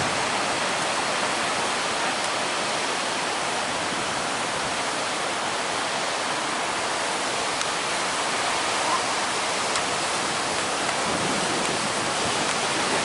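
Steady rushing noise of surf and strong onshore wind, an even hiss with no single wave breaks standing out.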